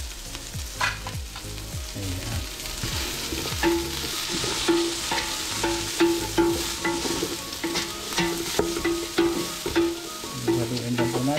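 Chopped ginger, garlic, onion and chilies sizzling in hot olive oil in a metal pot while being stirred, the utensil scraping and clicking against the pot again and again.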